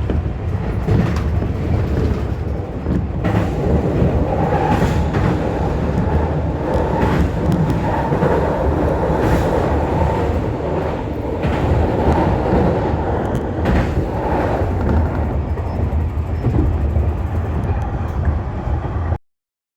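Tobu Tojo Line electric train running at speed, heard from inside the car: a steady rumble with a series of wheel clacks over the rail joints. The sound cuts off suddenly near the end.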